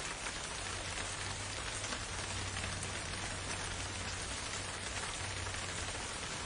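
Steady rain falling on forest foliage, an even hiss with faint scattered drops.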